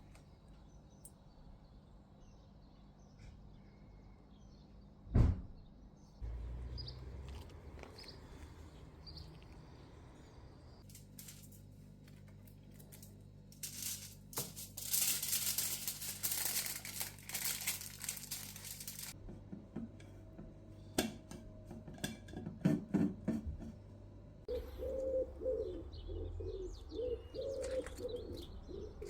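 Birds chirping, with a pigeon cooing in a run of low repeated calls near the end. A single sharp knock sounds about five seconds in, and a rush of noise comes and goes in the middle.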